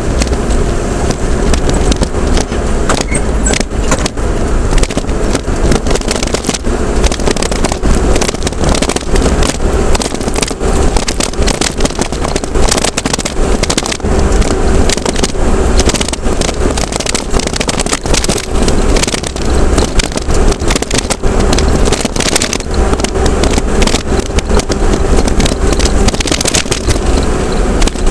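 A vehicle on the move: steady low road rumble, with frequent small knocks and rattles throughout.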